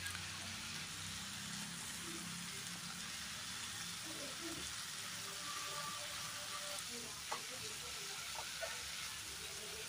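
Mixed vegetables frying in oil and spice paste in a kadai, a steady sizzle as they are stirred, with a few sharp clicks of the stirring spoon against the pan in the second half.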